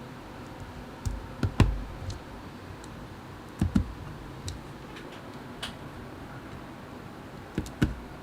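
Keys of a mechanical keyboard with lubed Gateron Milky Yellow linear switches pressed one at a time: a handful of scattered clacks, some in quick pairs, with gaps of a second or more between them.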